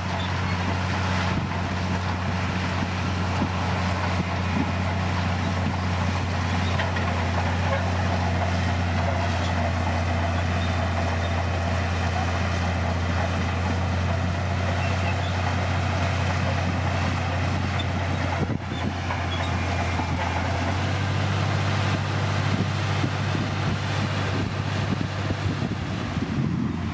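Heavy diesel engine of a bulldozer running steadily at a constant pitch, with a short break about two-thirds of the way through.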